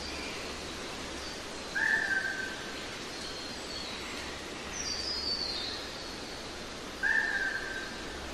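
Birds calling over a steady background hiss of outdoor ambience: two matching short whistled notes about five seconds apart stand out loudest, with fainter, higher twittering that falls in pitch between them.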